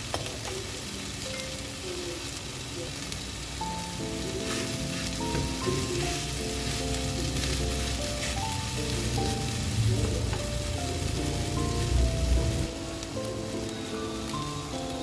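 Chicken thighs sizzling as they pan-fry in a frying pan, a steady crackling hiss, with a few heavier low bumps about ten to twelve seconds in.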